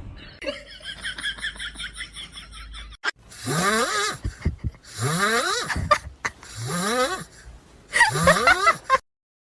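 A voice makes four calls of about a second each, every one rising in pitch. Before them comes a fainter, quick, repeated high chirping.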